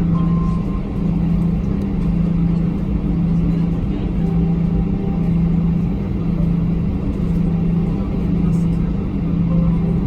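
Airbus A321 cabin noise while taxiing: a steady rumble from the engines at idle, with a low hum that swells and dips slightly more than once a second.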